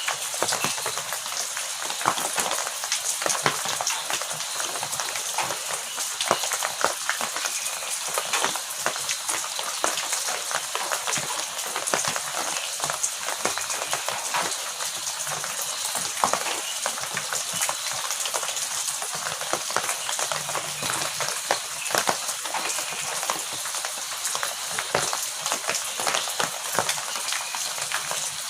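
Heavy rain falling steadily, a dense hiss of many close drop impacts pattering on a hard surface. No thunder is heard.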